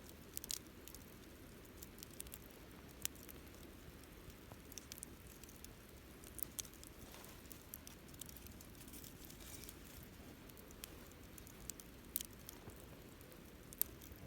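Wood campfire crackling softly: scattered sharp pops and snaps over a faint steady background, with the loudest snaps about three seconds in and near the end.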